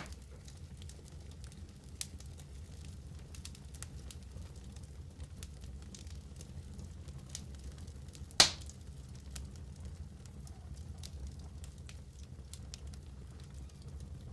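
Fireplace fire crackling: scattered small pops and one loud sharp pop about eight seconds in, over a low steady rumble.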